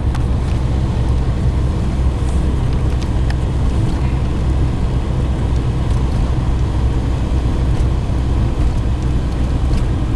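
Pickup truck driving, heard from inside the cab: a steady low engine and road rumble.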